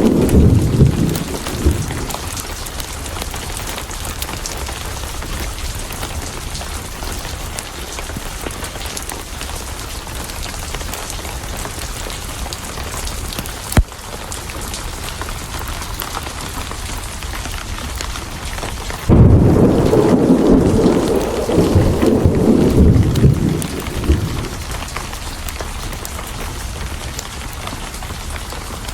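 Steady rain with thunder: a rumble fades out in the first two seconds, then a loud thunder roll breaks in suddenly about two-thirds of the way through and rumbles for about five seconds. A single sharp click sounds near the middle.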